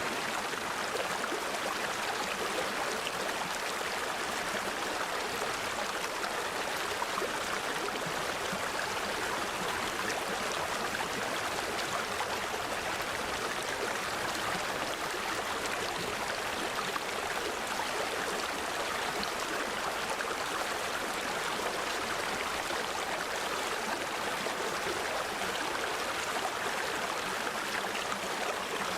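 Mountain stream flowing over rocks: a steady rush of water with no breaks or changes.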